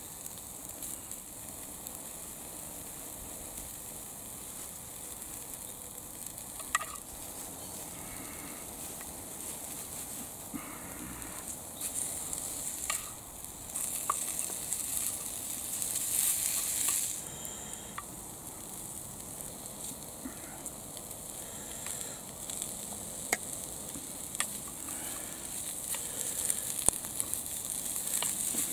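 Squirrel meat and onion sizzling as they fry in a small pan on a gas-canister camping stove. A fork scrapes and taps against the pan now and then, and the sizzle swells louder for a few seconds midway.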